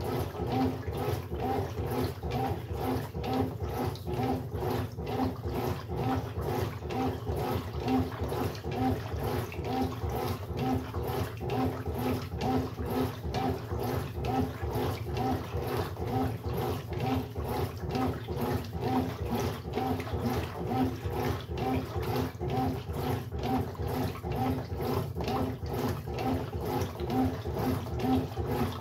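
Brastemp Sexto Sentido 8 kg washing machine running with water inside. A rhythmic, pulsing motor hum repeats about once or twice a second over steady water sloshing.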